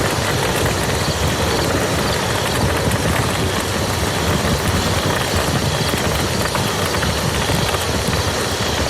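Steady rain falling on a muddy field: a dense, even patter with individual drops ticking through it.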